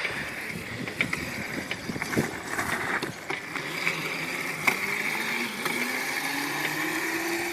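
A bicycle being ridden: clicking and rattling over a steady rushing hiss. From about five seconds in, a faint motor tone rises slowly in pitch.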